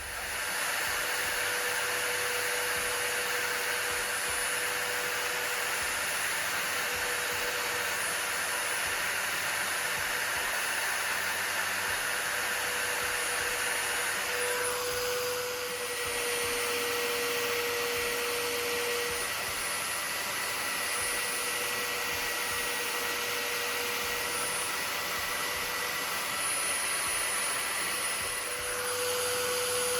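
A high-speed electric power tool runs steadily at a constant pitch, with a broad hiss from the work it is doing on the metal. About halfway through, the hiss changes as the tool's contact with the work shifts.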